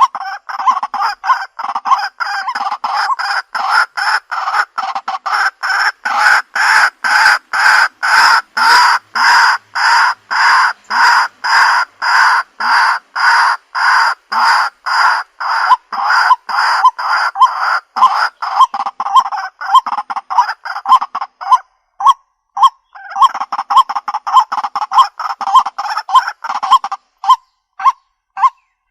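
White-breasted waterhen calling: a harsh, evenly repeated 'kwak' note about two times a second, loud and without a break until a short pause about two-thirds of the way through, then resuming and thinning to spaced single calls near the end. This is the male's call that is played as a lure.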